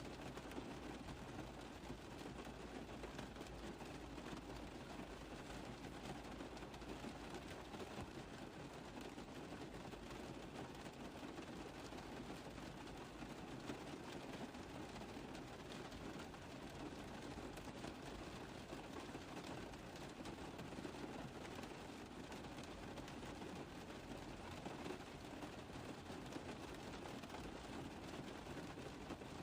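Rain falling steadily on a car roof, a dense, even patter of drops.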